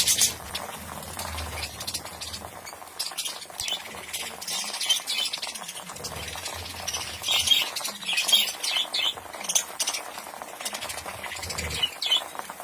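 Budgerigars chirping and chattering, many short high chirps and clicks overlapping without pause.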